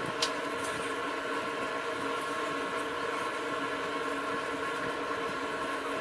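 Steady mechanical hum made of several fixed tones over a noisy hiss, with one short sharp click about a quarter second in.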